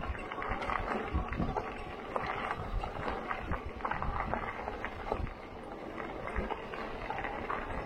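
Bike riding over a rough, rocky trail: steady tyre crunch with many small irregular clicks and rattles, and low rumble from wind on the microphone.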